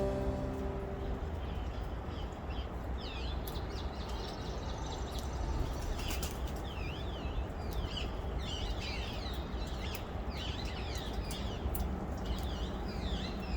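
Small birds chirping over and over in quick, rising-and-falling calls, over a steady low outdoor rumble. A last bit of music dies away in the first second.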